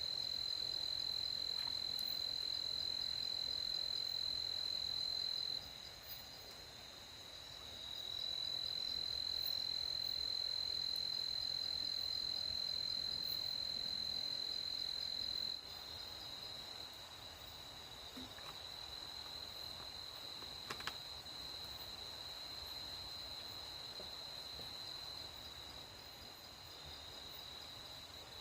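Crickets trilling at night in one steady, high, unbroken tone. It drops in level about six seconds in, comes back, and drops again about halfway through. There is a single faint click a little after that.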